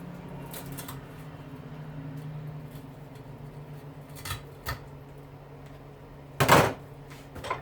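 Metal handling and hand-tool work on braided stainless steel hoses: a few sharp clicks and snips, then one loud, short clatter about six and a half seconds in, over a steady low hum.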